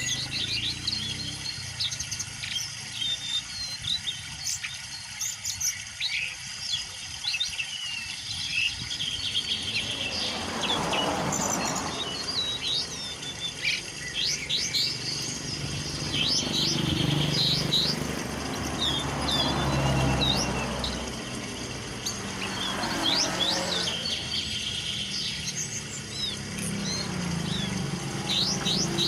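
Songbirds chirping and calling in many short, quick high notes and trills. A low rushing noise swells and fades about ten seconds in, and twice more later.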